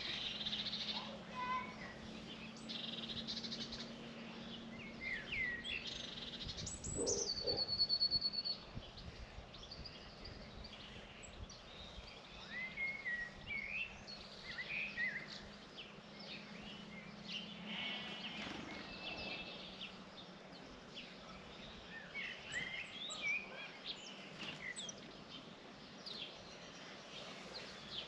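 Small birds chirping and calling, many short chirps and sweeping notes overlapping, with one louder call about seven seconds in that ends in a held whistle. A faint steady low hum runs underneath.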